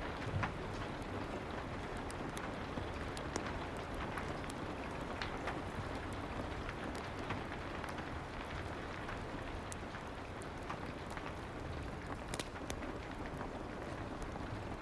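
Soft rain ambience: a steady even hiss of rain with many scattered small sharp ticks.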